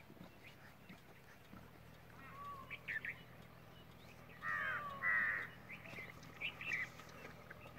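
Birds calling: a run of harsh, caw-like calls, the two loudest close together about halfway through, with smaller calls before and after. Under them is a faint steady low hum that starts under two seconds in.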